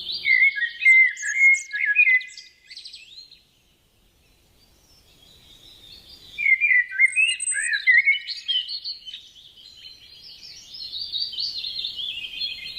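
Songbirds singing: rapid warbled and chirping phrases, pausing briefly about four seconds in, then resuming and carrying on.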